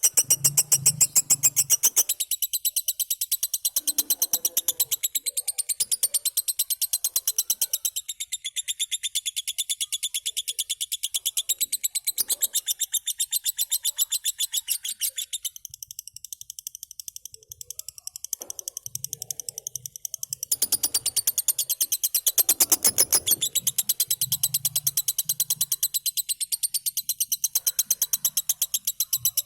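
Lovebird chattering: a rapid, evenly repeated stream of high-pitched chirps that goes on without a break, thinning for a few seconds past the middle.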